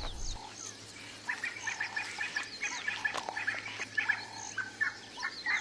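Birds chirping, with many short calls overlapping into a busy chorus from about a second in.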